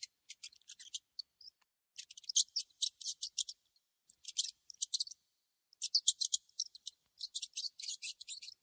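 Mouse squeaking: rapid runs of very high, thin squeaks and chirps in several bursts, with short silent gaps between them.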